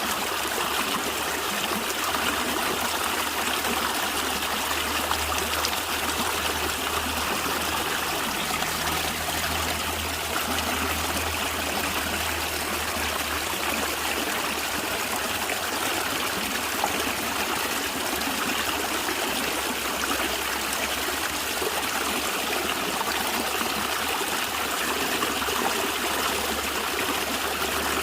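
A stream running over stones, a steady gurgling and trickling of water.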